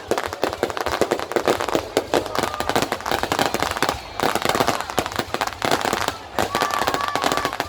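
Fireworks going off in a dense barrage of rapid crackling bangs, many a second, with a few short whistling tones near the end.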